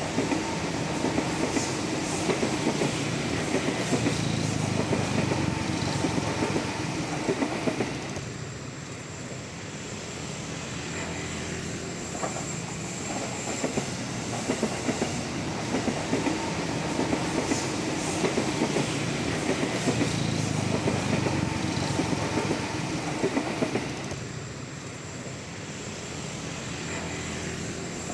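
Electric commuter train (KRL Commuter Line multiple unit) running on the line, a steady rumble with wheels clacking over the rail joints. The sound swells and fades twice.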